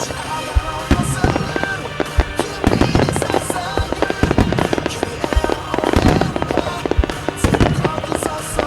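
Starmine fireworks display: a rapid barrage of shells launching and bursting, a dense run of booms with crackling and hissing bursts, heaviest about three and six seconds in. Accompanying music plays underneath.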